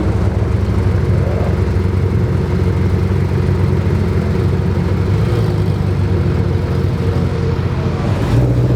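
Car engine running steadily at low revs, a continuous low hum.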